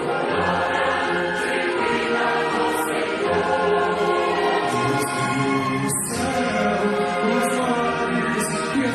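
A choir singing in long held notes that shift every second or two.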